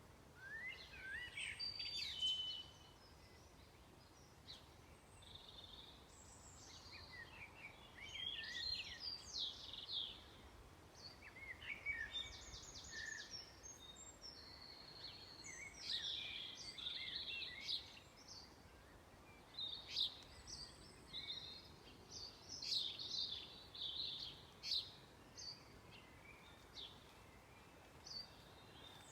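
Songbirds singing: phrases of quick, varied high chirps and trills come in bursts of a few seconds, with short pauses between them, over faint steady background noise.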